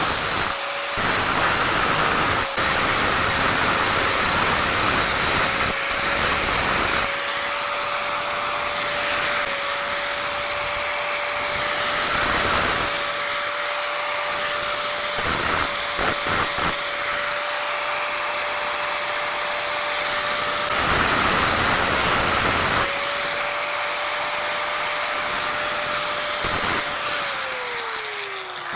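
Electric angle grinder running at speed, with a steady whine under rougher grinding noise that swells and eases as the disc is put to the hand saw's teeth, sharpening them. Near the end the whine drops in pitch as the grinder is switched off and spins down.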